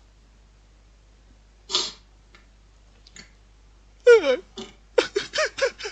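A person's voice without words: a short breathy burst about two seconds in, then high-pitched squealing laughter near the end, in quick pulses that rise and fall in pitch.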